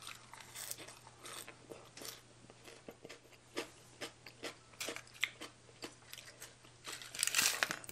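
Close-up chewing and crunching of a fresh leaf wrap filled with spicy baby cuttlefish salad, in many short crisp crackles. Near the end comes a louder, denser burst of crackling as crispy pork rinds are broken up by hand.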